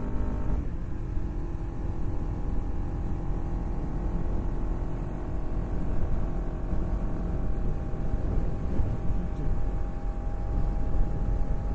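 Motorcycle engine running over a dense low rumble. Its steady hum changes pitch about half a second in.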